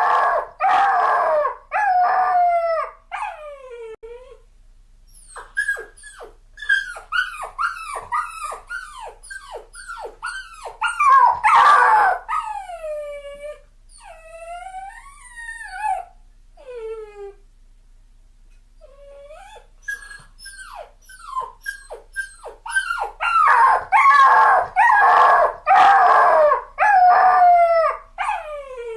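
Dog crying and whining: runs of short high yelps, each falling in pitch, and longer drawn-out cries that slide down, coming in bursts with two short pauses.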